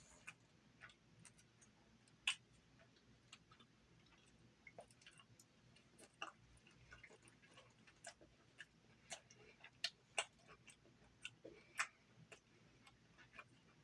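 Quiet eating at close range: faint, irregular sharp mouth clicks and smacks of chewing, about one or two a second.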